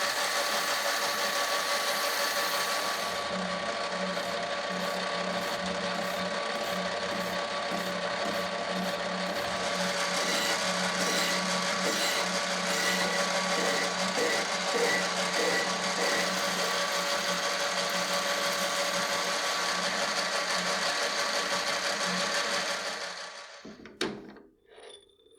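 Electric power tool running steadily, then switched off and winding down about 23 seconds in, followed by a sharp click.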